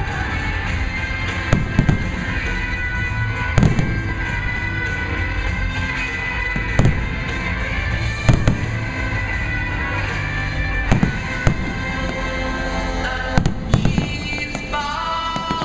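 Fireworks bursting overhead: about ten sharp booms at irregular intervals, several in close pairs, over continuous loud music. The bursts thin out near the end.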